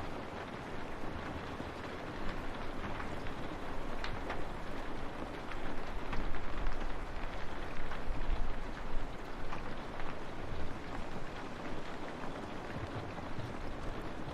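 Steady rain on a window, a continuous hiss with a few drops ticking sharply against the glass.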